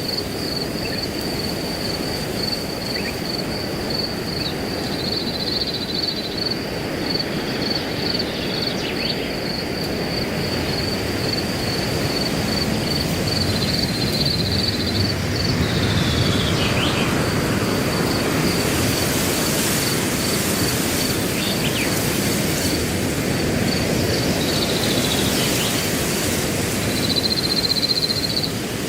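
Wind rushing through grass, swelling louder in the second half, under a cricket chirping in an even, rapid pulse. A bird gives a few short falling calls.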